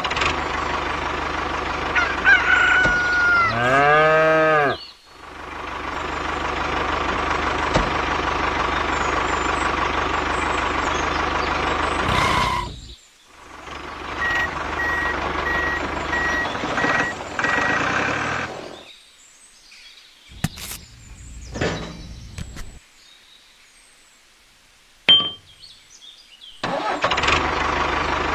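A small engine or motor running steadily, in several stretches that cut off suddenly and start again, with a call that rises and falls in pitch about three to four seconds in.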